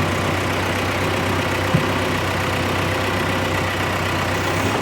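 John Deere 401-C loader tractor's engine running steadily at low speed, with a single sharp click a little under two seconds in.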